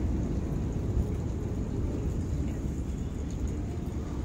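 Wind buffeting the microphone in a snowstorm, a steady low rumble.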